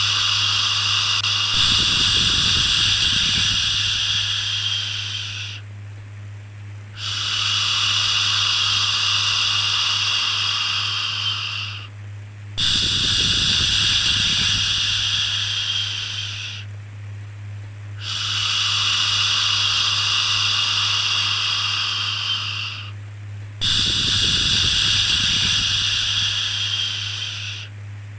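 A long 'shhh' shushing sound, repeated about every five to six seconds with short breaks between, the kind used to soothe a baby to sleep. A steady low hum runs underneath.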